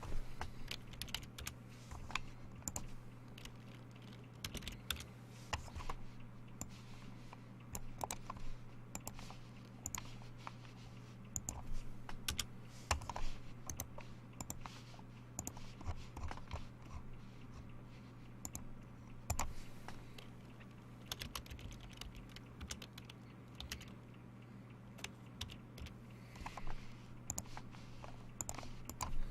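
Typing on a computer keyboard: irregular runs of sharp key clicks over a steady low hum.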